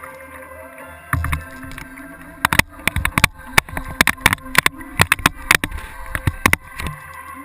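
Kayak on the water, with a low thump about a second in, then a quick, irregular run of sharp knocks and clicks close to the kayak-mounted camera for about four seconds.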